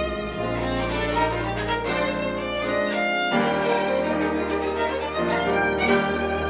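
Live chamber music: a violin carries the melody over held low string notes, the harmony shifting every second or so.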